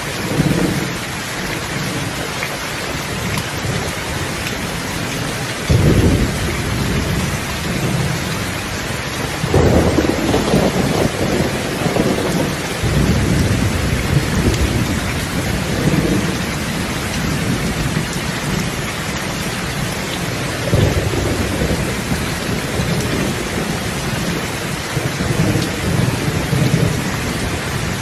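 Steady rain hissing, with thunder rumbling low several times: rolls start abruptly about six seconds in, again near ten and thirteen seconds, and once more past twenty seconds.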